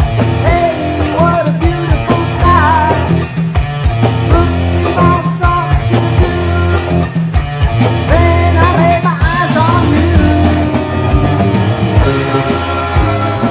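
Late-1970s rock band recording of electric guitars, bass and drums, with steady drum hits under a bending, wavering lead line.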